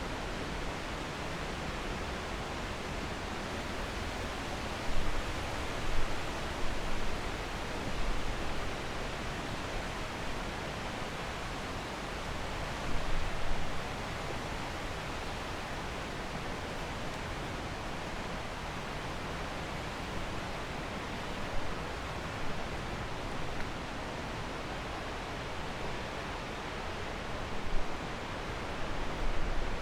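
Steady, even rush of flowing water from a stream or waterfall, broken a few times by brief low bumps.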